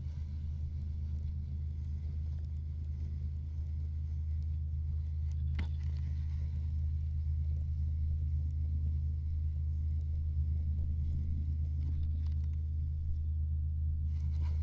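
A low, steady motor rumble that slowly grows louder, with a single sharp click about six seconds in.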